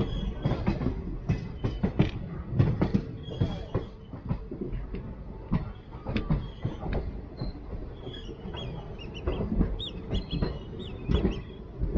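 Passenger train coaches running on the track: irregular clattering knocks of the wheels over rail joints, with short high wheel squeals that come and go.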